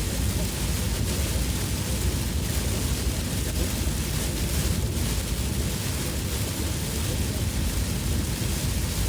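Heavy monsoon rain beating on a moving car, heard from inside, as a steady hiss over a constant low rumble.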